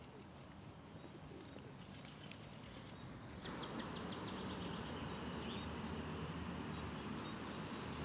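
Small birds chirping in quick series of short high notes, some falling in pitch, over a steady low hum of city background noise that steps up in level about three and a half seconds in.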